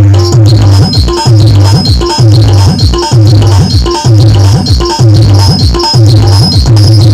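Loud electronic keyboard music played through a band's sound system for a sound check. A heavy bass note pulses a little faster than once a second, with short higher keyboard notes in a repeating pattern.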